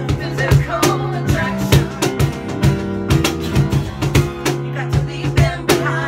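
A band playing an instrumental passage between sung lines: guitar over drums that keep a steady beat.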